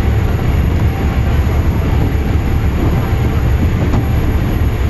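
Coach bus driving, with a steady low rumble of engine and road noise.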